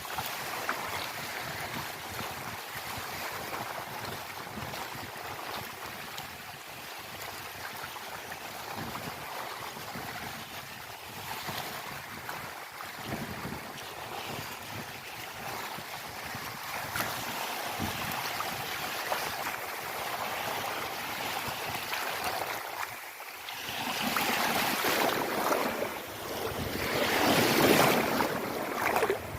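Ocean waves washing, with wind buffeting the microphone; the surf swells louder in the last few seconds.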